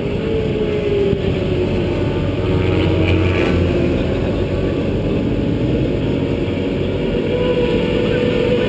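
Onboard sound of a vehicle lapping a racetrack at speed: the engine runs hard under loud wind and road noise, its pitch sagging slightly and then climbing again near the end as it accelerates.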